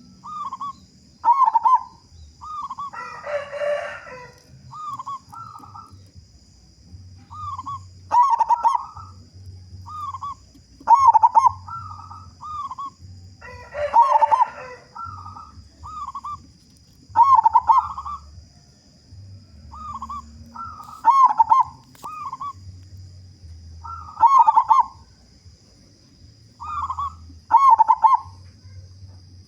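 Zebra dove (perkutut) singing: repeated rhythmic phrases of short, curved cooing notes, one phrase every second or two. Twice, about ten seconds apart, a harsher rasping sound of about a second cuts in.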